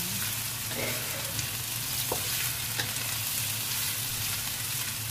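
Pieces of tempeh sizzling in a little hot oil in a wok as they are stirred with a spatula, which clicks and scrapes against the pan a few times.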